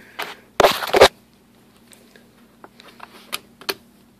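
Airbox retaining tab on a BMW V8 being pried off with a screwdriver: a short rattle ending in two sharp clicks a little over half a second in as it snaps loose, then a few faint ticks of plastic and tool.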